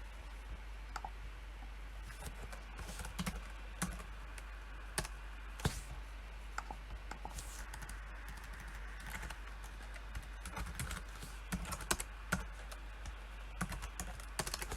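Typing on a PC keyboard: irregular bursts of keystrokes with short pauses between them.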